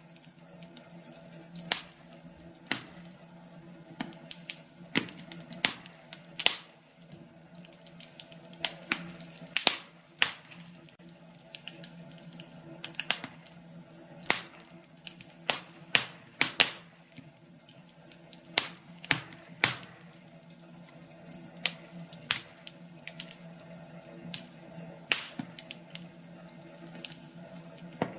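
Wood fire crackling: irregular sharp pops and snaps from burning logs, some much louder than others, over a soft hiss and a low steady hum.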